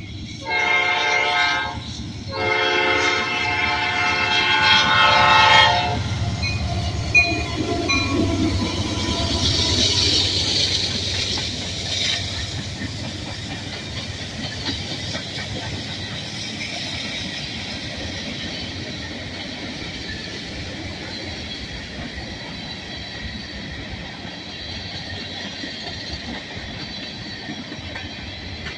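Norfolk Southern AC44C6M diesel locomotive sounding its horn for the grade crossing, a short blast and then a longer one, and then passing close by. After it comes a long freight train of tank cars and covered hoppers rolling past, with steady wheel and rail noise and clickety-clack over the rail joints.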